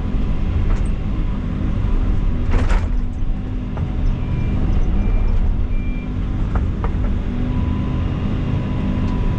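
Heavy equipment's diesel engine running steadily under load while pulling a tree out of mud, with a sharp crack about two and a half seconds in and a few lighter clicks. Three faint short beeps come in the middle.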